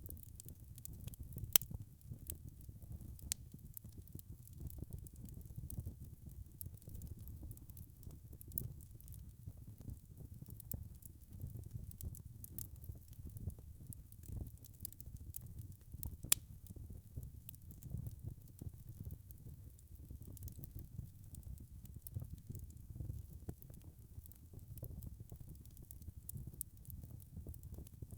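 Wood fire burning in a fireplace: a steady low rumble of flames with constant small crackles, and two sharper pops, one about a second and a half in and another about halfway through.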